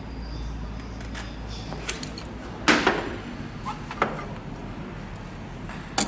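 Metal tools and injector parts clinking and knocking as a Scania/Volvo EUI injector's nozzle cap nut is tightened on its adapter: a few separate clanks, the loudest about two and a half seconds in.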